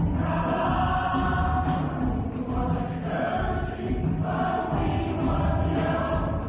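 Choir singing sustained chords with accompaniment and a light, regular beat.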